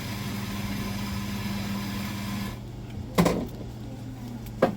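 A steady machine hum with a hiss over it. The hiss cuts off about halfway through while the hum carries on, then come two sharp knocks.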